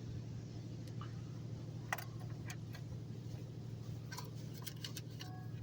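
Steady low hum heard inside a car's cabin while it sits in a touch-free car wash bay, with scattered light ticks and clicks at irregular moments.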